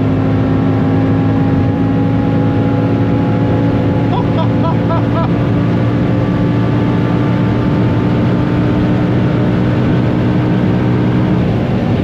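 BMW M3 E46's swapped-in S85 V10 engine pulling hard at high speed in fifth gear, its pitch holding nearly steady over road and wind noise.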